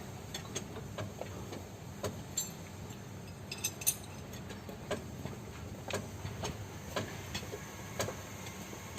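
Light, sharp metallic clicks and taps from hand tools working on metal, coming irregularly about once a second, over a low steady hum.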